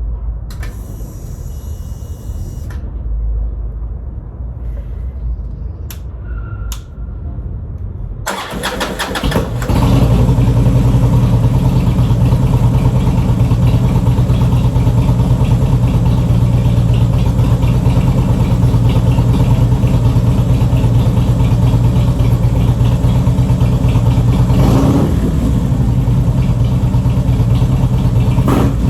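Harley-Davidson V-twin motorcycle engine started about eight seconds in, after a few clicks, then running steadily, the freshly rebuilt salvage bike running strong.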